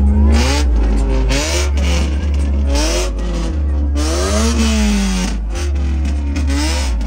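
Car engine revving repeatedly, its pitch rising and falling with each rev, over a loud deep bass.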